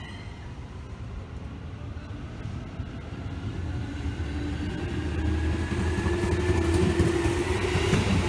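Electric commuter train running past, growing louder over the last few seconds, with a faint motor whine that slowly rises in pitch as it gathers speed.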